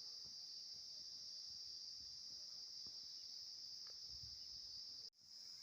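Steady, high-pitched insect chorus of crickets or cicadas shrilling without a break, cut off for a split second near the end before resuming.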